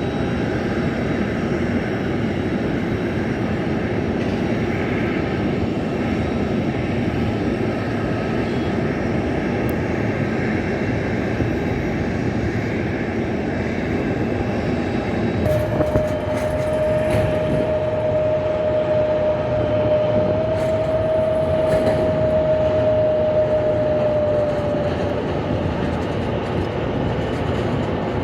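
Large jet cargo aircraft engines making a steady, loud rumbling roar, with a held whine from about halfway through until near the end.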